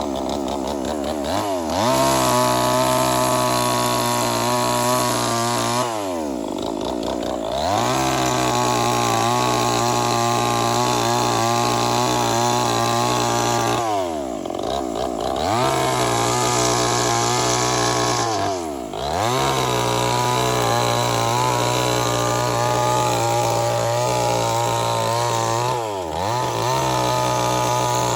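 Chainsaw running at high revs cutting wood, its engine note dropping briefly and climbing back about five times.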